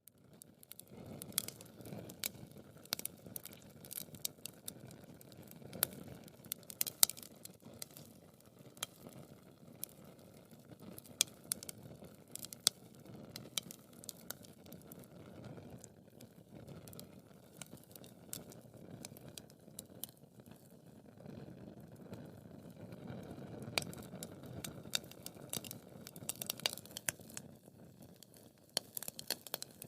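Wood fire burning in a fireplace: a steady low rush of flame with frequent, irregular sharp crackles and pops from the burning wood. The rush swells a little past the middle.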